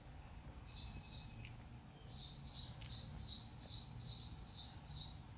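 A bird chirping: a pair of short, high chirps about a second in, then an even run of the same chirps, two or three a second, from about two seconds in.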